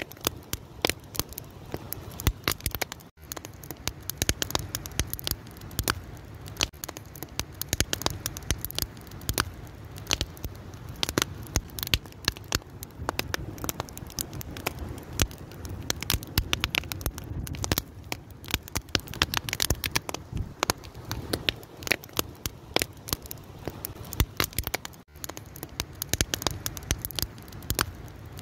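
Wood fire crackling steadily, with dense irregular pops and snaps over a low, even burning hiss. The sound drops out for a split second twice.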